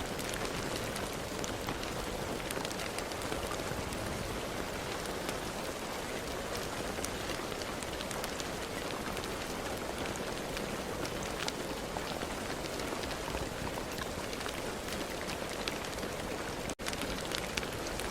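Steady rain falling, a dense even hiss with many small separate drop ticks through it. The sound cuts out for an instant near the end, then carries on as before.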